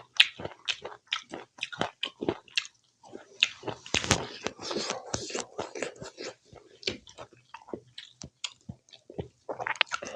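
Close-miked chewing and lip-smacking of a person eating spicy pork curry with rice: a steady run of short, irregular wet smacks and crunchy bites, one sharper click about four seconds in.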